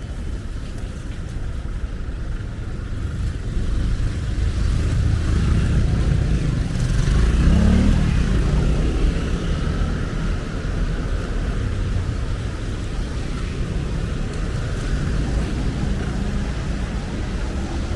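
Street traffic: a steady low rumble of motor vehicles, with one vehicle's engine growing louder and passing about halfway through, then fading back into the traffic.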